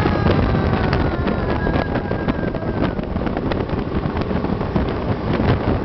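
Wind buffeting the microphone with road and engine noise from a moving motorcycle, a steady rumble.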